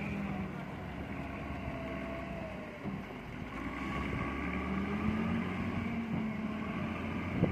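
Vehicle engines running with a steady low hum. The engine note dips briefly about three seconds in, then comes back a little stronger.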